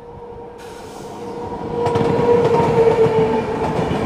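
A WAP-7 electric locomotive's horn sounds one long steady note, growing louder as the train approaches. About two seconds in, the loud rumble and clickety-clack of the locomotive and its passenger coaches passing close by on the next track takes over.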